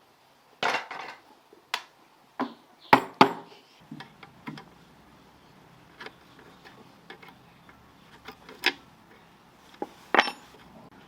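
Metal hand tools and small engine parts clinking and knocking as they are handled and set down, in scattered irregular strikes, with the loudest about three seconds in and near the end.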